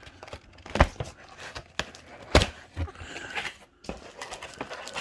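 Packaging and accessories being handled in a cardboard box during unboxing: a few sharp knocks, two louder ones about a second and a half apart, with light rustling between.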